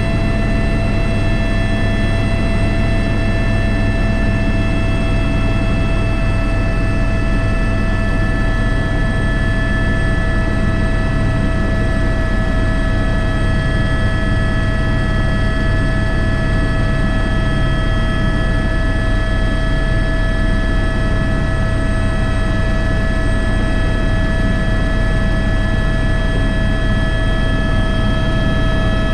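Airbus H125 helicopter running steadily, heard from the cockpit: a constant low rotor and engine rumble with several high, steady turbine and gearbox whines.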